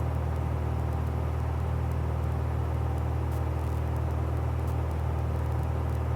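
Steady cabin drone of a 1966 Cessna 172G's Continental six-cylinder engine and propeller at climb power, near the top of the climb, with a deep, even hum.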